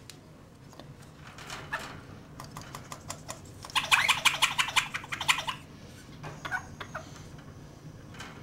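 A pet bird calling: scattered short calls, then a dense run of rapid, repeated calls lasting about two seconds from around four seconds in, then a few more calls.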